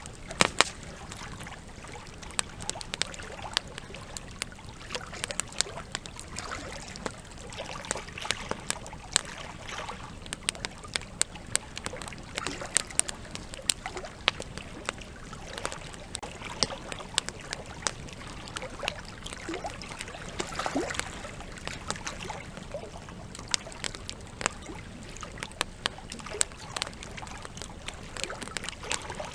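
Campfire crackling with frequent sharp, irregular pops over the steady trickle and rush of a river, with a few gurgles of water.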